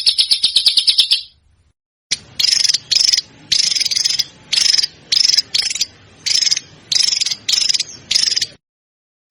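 Recorded songbird calls for training competition birds. A fast, even high trill breaks off about a second in. After a short gap come about ten short, rasping high chirps in a steady series.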